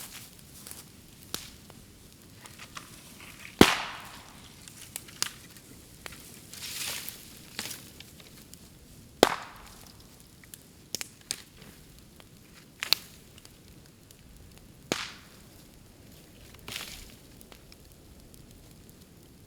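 Bamboo burning on an open bonfire, with four loud sharp bangs as sealed sections of the culms burst, scattered lighter crackles between them, and a couple of short hissing spurts.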